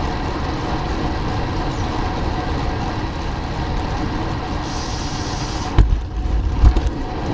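Steady wind noise and road rumble from riding a bicycle, heard on the camera's microphone. A brief high hiss comes about five seconds in, followed by two low thumps.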